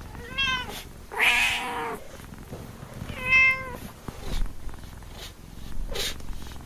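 A domestic cat meowing three times in quick succession, each meow under a second long, with the middle one the longest. A short, faint call follows about six seconds in.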